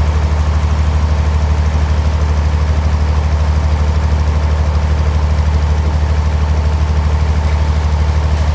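Engine driving a band sawmill, running steadily with a fast, even throb.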